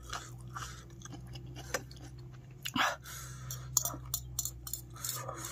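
A person chewing a mouthful of fried noodles, with scattered wet mouth clicks and smacks, the loudest about three seconds in. A faint steady hum runs underneath.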